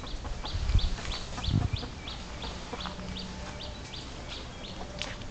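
A bird calling a steady series of short, high notes, about three a second, with a few low thumps in the first two seconds.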